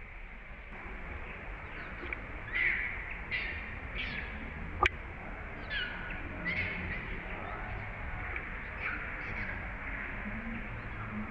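A run of short, high-pitched animal chirps, each falling in pitch, repeating about once a second, with one sharp click about halfway through.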